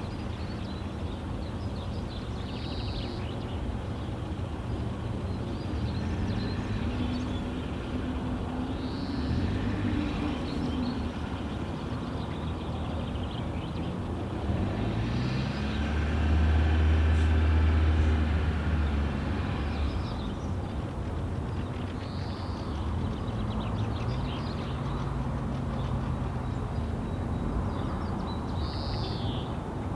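Low hum of distant motor traffic, with a vehicle passing and growing loudest about halfway through. Short bird calls break in a handful of times over it.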